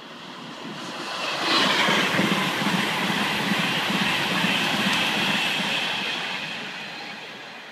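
Virgin Trains Class 390 Pendolino electric train running through at speed without stopping. A rush of wheels on rail and air builds up, is loudest for about four seconds with a steady high whine and a rhythmic low clatter, then fades as the train goes away.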